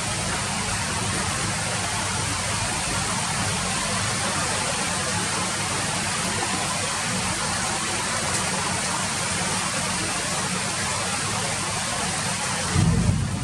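Steady rain falling, an even hiss with a low rumble beneath it. Near the end a louder low rumble briefly swells.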